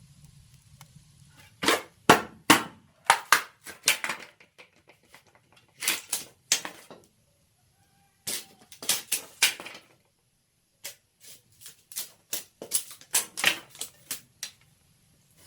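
A knife chopping on a wooden cutting board: quick runs of sharp chops, several strikes at a time, with short pauses between the runs.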